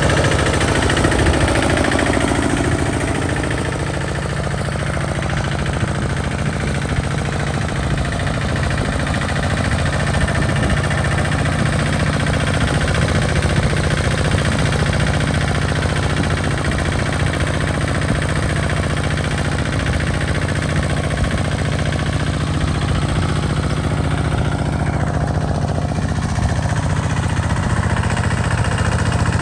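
Engine of a two-wheel walking tractor running steadily under load while pulling a plough through sandy soil.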